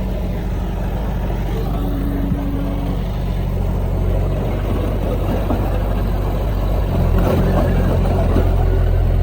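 Heavy earthmoving machine's diesel engine running steadily, growing louder about seven seconds in.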